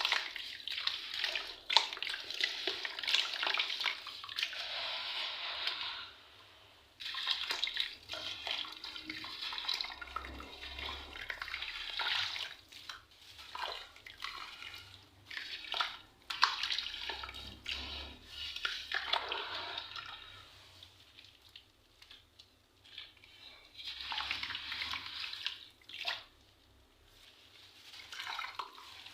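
Wet sand balls and shapes crumbling and falling into water: stretches of hissing, trickling sand several seconds long, with sharp cracks here and there and short pauses between.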